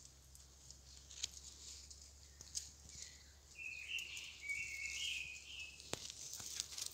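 Woodland ambience with a bird singing a short run of warbling notes about midway through, over a faint hiss and scattered light clicks and rustles.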